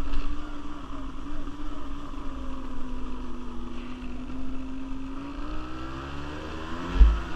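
Quad bike (ATV) engine running under way. Its pitch sags slightly, then rises over the last couple of seconds as it speeds up. A short, loud, low thump comes near the end.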